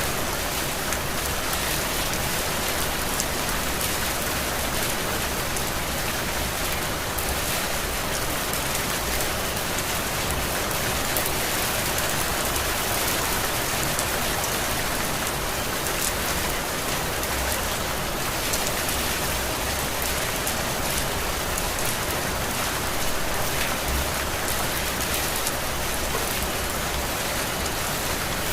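Heavy tropical rain falling steadily, a continuous even hiss of rain on surfaces.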